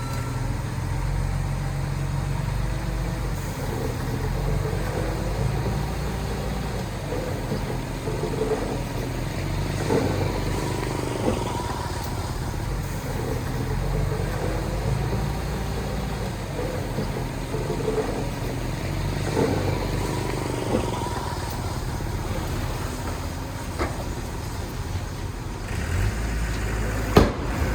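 Diesel engine of heavy earthmoving machinery running steadily, its pitch rising and falling every couple of seconds, with a few sharp metallic knocks, the loudest near the end.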